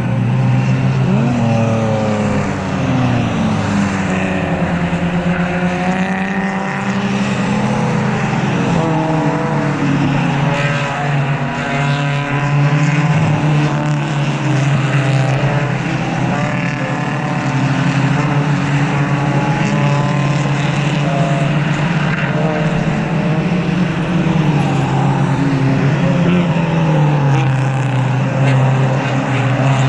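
Race cars running past on track one after another, several engines overlapping, their notes rising and falling in pitch as they come and go.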